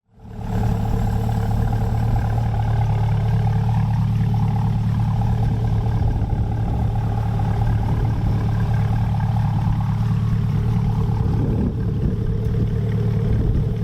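2020 C8 Corvette's 6.2-litre V8 running at a steady engine speed through a 3-inch stainless cat-back exhaust with an X-pipe and the factory catalytic converters still in place. A steady, even drone with no revving; it fades in after a short gap.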